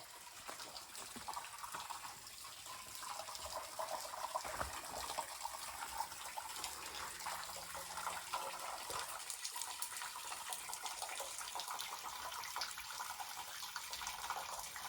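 Small waterfalls trickling and splashing over rock in a gorge, a steady light patter of falling water that echoes off the cliff walls.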